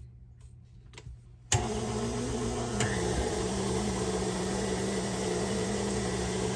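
KitchenAid stand mixer switched on about a second and a half in, its motor running steadily to drive the Spiralizer Plus attachment through a cucumber. A few faint clicks come before it starts.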